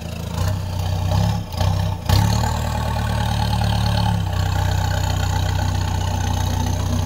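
Mahindra Roxor's 2.5-litre turbodiesel engine pulling away under load, towing a dead tractor. It rises in the first two seconds with two brief dips, then runs steadily.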